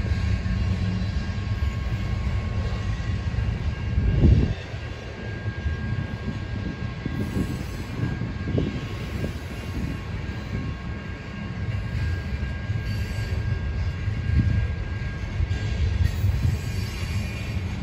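Railroad cars rolling past with a steady low rumble and a thin, steady high squeal from the wheels; a single loud low bump about four seconds in.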